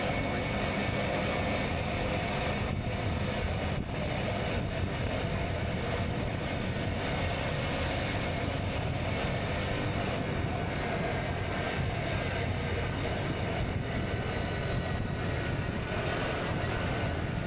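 KTM Duke 125's single-cylinder engine, breathing through an Akrapovic exhaust, running at a fairly steady pace while riding, with wind rushing past the microphone.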